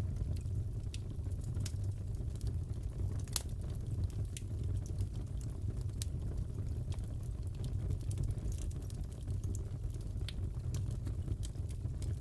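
Wood fire crackling in a fireplace: a steady low rumble with scattered sharp pops, one louder pop a little over three seconds in.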